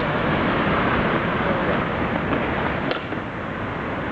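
Steady city street noise of passing traffic, with a brief click about three seconds in.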